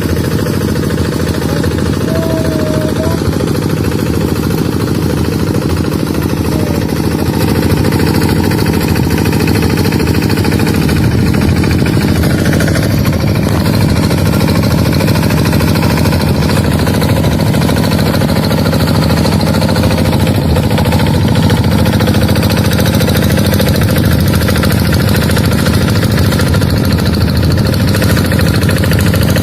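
Tractor engine running steadily, a continuous mechanical drone that never lets up.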